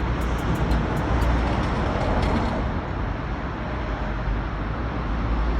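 Steady outdoor background noise with a heavy low rumble, like distant traffic.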